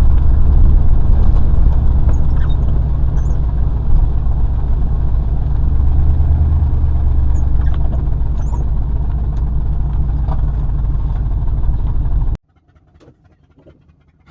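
Truck engine and road noise while driving, a steady low rumble that cuts off abruptly about twelve seconds in.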